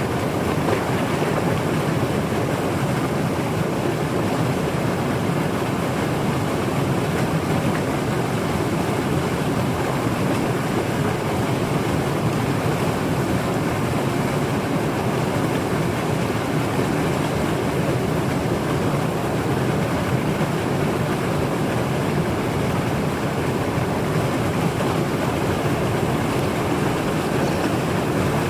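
A mountain stream rushing over rocks: a steady, unbroken roar of flowing water.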